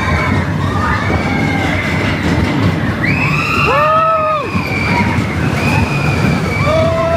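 Riders screaming on a roller coaster over the rumble of the coaster train running along its steel track, several long overlapping screams rising and falling in pitch, the loudest about four seconds in.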